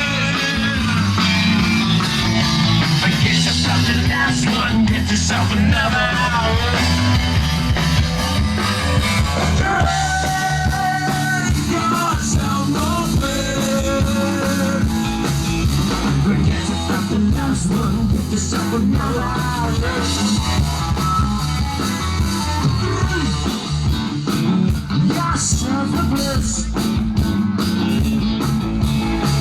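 Live rock band playing a song with a singer, steady and loud throughout.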